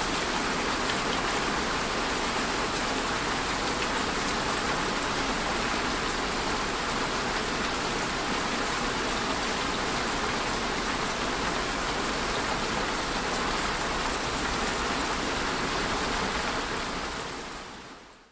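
Steady heavy rain falling, an even dense patter that fades out smoothly over the last couple of seconds.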